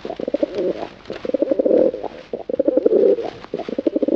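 Pigeon cooing: low, throaty, purring coos repeated in about four phrases.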